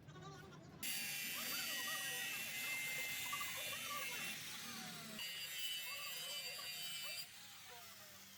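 Loud high-pitched buzzing from metalworking on a truck axle housing, starting abruptly about a second in, shifting in tone partway through and cutting off suddenly near the end.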